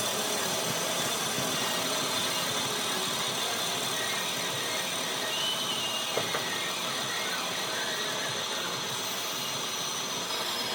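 Workshop machinery running steadily, with a brief click about six seconds in.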